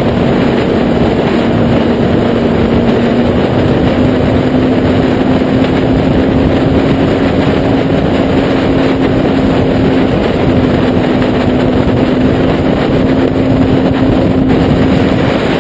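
Kawasaki Z800 inline-four engine breathing through a Taylor Made Firetong sport exhaust, running at a steady, nearly constant pitch that steps up slightly a few seconds in, under heavy wind rush on the microphone.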